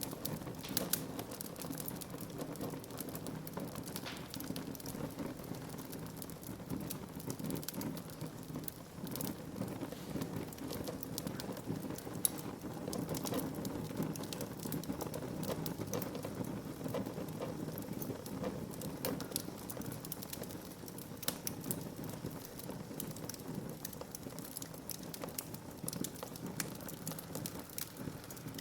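Wood fire burning in a fireplace: a steady low rush of flames with frequent, irregular sharp crackles and pops from the burning logs.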